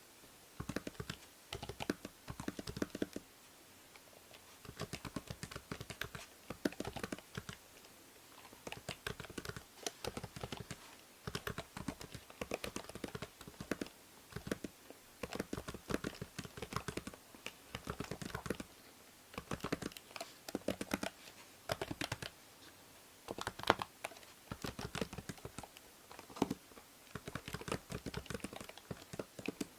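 Computer keyboard typing in bursts of quick keystrokes with short pauses between them, over a faint steady hiss of microphone noise from a binaural microphone.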